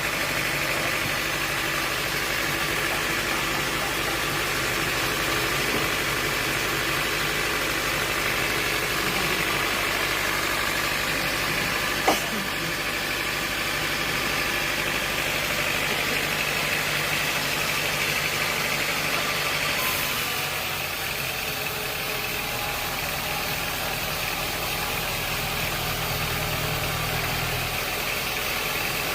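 Sawmill machinery running steadily, like an engine idling, with one sharp knock about twelve seconds in and a slight drop in level about twenty seconds in.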